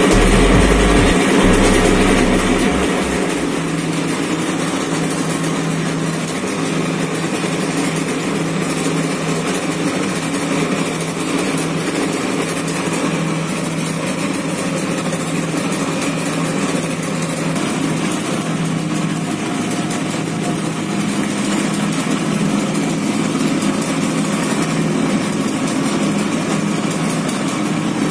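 Yamaha RD350's air-cooled two-stroke parallel-twin engine running on choke just after a cold start. It is louder for the first two seconds or so, then settles into a steady idle.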